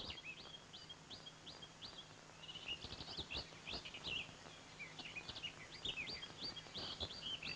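Small songbirds chirping in quick runs of short, high notes, busier from about a third of the way in, over a faint steady low hum.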